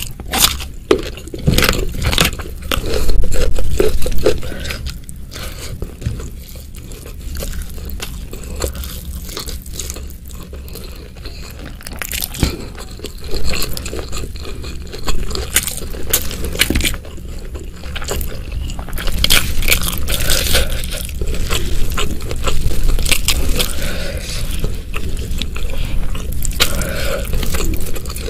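Close-miked chewing of a hand-fed mouthful of rice, sambal and raw leunca berries: irregular wet crunches and crackles, with a louder run of crunching a few seconds in.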